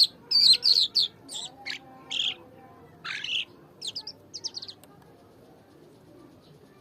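A songbird singing: a quick run of high chirps, short trills and quick down-sweeping notes, varied in pitch, that stops about five seconds in.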